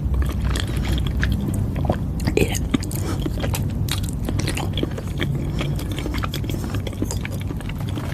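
Close-miked mouth sounds of a person eating soft coconut custard pudding: wet chewing with irregular small smacks and clicks.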